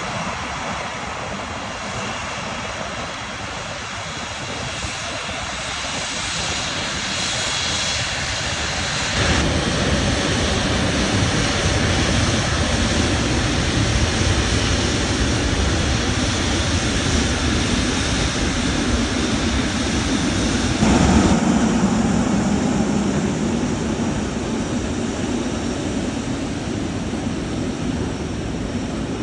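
Boeing 777's jet engines running up close, a steady rush that grows suddenly louder about nine seconds in, peaks about twenty-one seconds in, then eases off a little.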